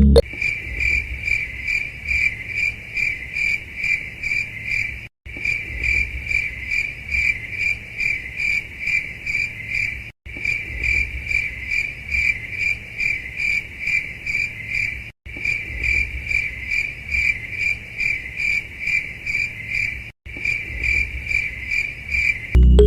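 Insect chirping in a steady rhythm of about three chirps a second, breaking off briefly about every five seconds.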